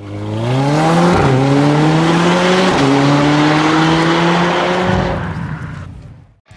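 Car engine accelerating hard, its pitch climbing and dropping at two gear shifts, then fading away.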